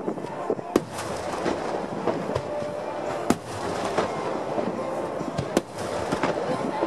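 Aerial firework shells bursting in a series of sharp bangs, the loudest about one second, three seconds and five and a half seconds in, with smaller reports between.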